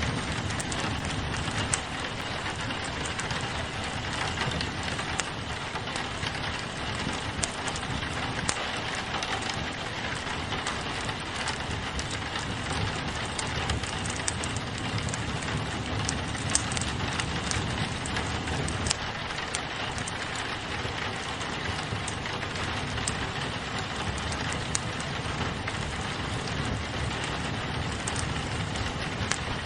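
Steady rain pattering on a window, mixed with a crackling wood fire that gives scattered sharp pops.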